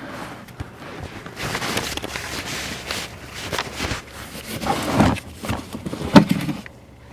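Rustling and scuffling of a person settling down on a piece of carpet on the ground, with a few sharp knocks, the loudest about six seconds in.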